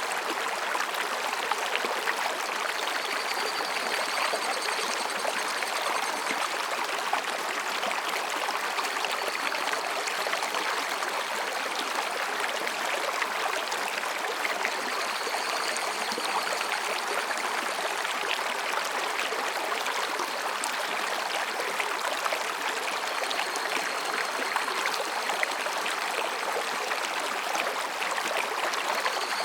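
Mountain stream rushing and babbling steadily over rocks. Faint high calls of higurashi cicadas come and go several times above the water.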